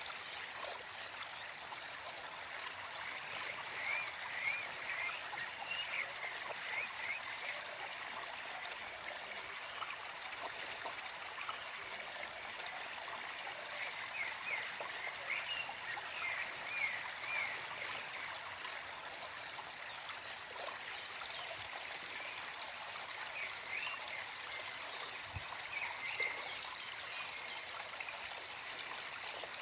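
Small forest stream flowing and trickling steadily. A bird sings three phrases of quick high notes, roughly ten seconds apart.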